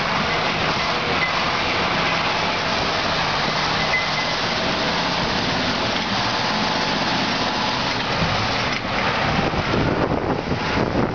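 Ural 4320 truck's diesel engine running under load beneath a loud rushing noise. About nine seconds in, choppy gusting, like wind buffeting the microphone, takes over.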